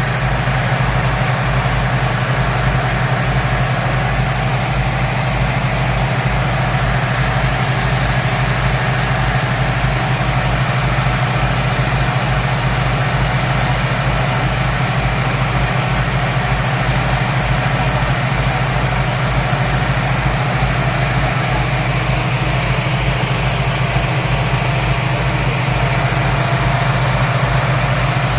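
Speedboat engine running with a steady low drone and a wash of noise over it, holding the same pitch and level throughout.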